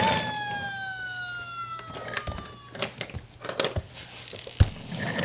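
A pitched tone with overtones sliding slowly downward for about three seconds, followed by a few scattered clicks and knocks, the sharpest one near the end.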